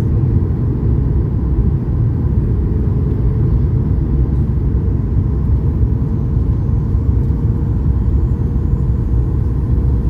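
Steady low rumble of a Boeing 737 MAX 8's CFM LEAP-1B engines and airflow, heard inside the passenger cabin during the approach.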